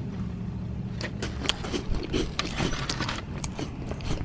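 Close-up chewing and wet mouth sounds from eating a donut filled with strawberry whipped cream, in a run of small clicks from about a second in, over a steady low hum.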